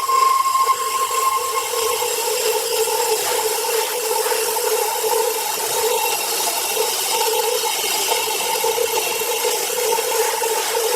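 Sawmill saw running steadily through a log, with a constant hum and a continuous hiss of cutting. A higher tone drops out about two seconds in.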